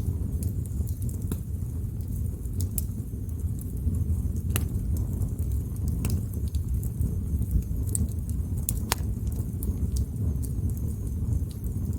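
Wood fire burning: a steady low rush of flames under scattered sharp crackles and pops, with a couple of louder snaps around the middle.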